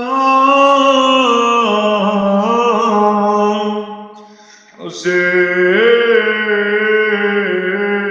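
A man's voice chanting an Arabic elegy unaccompanied, in long held notes with melismatic ornaments. The voice drops away about four seconds in for a breath, then comes back with a second long held phrase.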